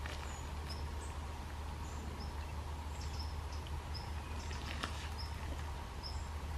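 A small bird repeating short, high chirps roughly once a second over a steady low rumble, with a few faint clicks.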